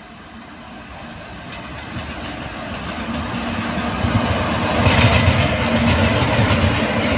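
Two Indian Railways WAG5 electric locomotives hauling a freight train approach and pass close by. A steady hum from the locomotives is joined by wheels rumbling and clattering on the rails, growing steadily louder until the locomotives go by about five seconds in.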